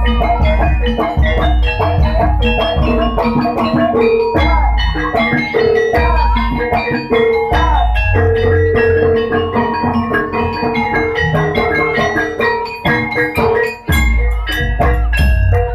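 Jaranan gamelan music: struck bronze gong-chimes and metallophones ring over drumming and deep gong-like beats, with a wavering melody line above them.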